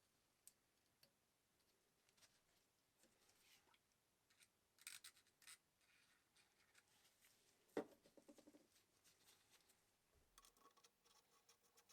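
Faint clicks and scratching of hands working on a sewing machine's small metal parts, with one sharper metallic click that rings briefly about eight seconds in. Near the end a fast, even ticking begins.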